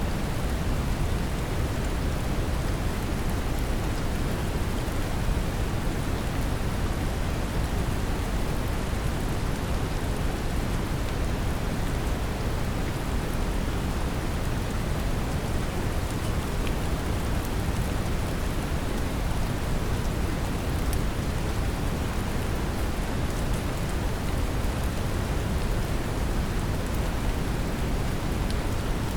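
Steady brown noise with a layer of gentle rain: an even, deep rumble-like hiss with light scattered raindrop ticks over it, unchanging throughout.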